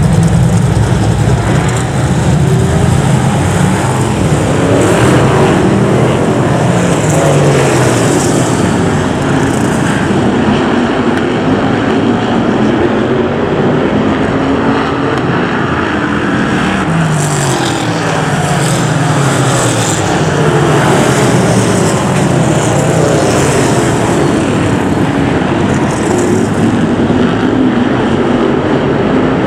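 Several Brisca F1 stock cars' V8 engines racing together, with overlapping rising and falling engine notes as the cars rev, lift off and sweep past.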